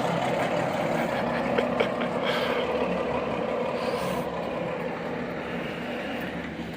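Ruston & Hornsby 165DS diesel locomotive's engine running steadily, gradually getting quieter, with a couple of light clicks nearly two seconds in.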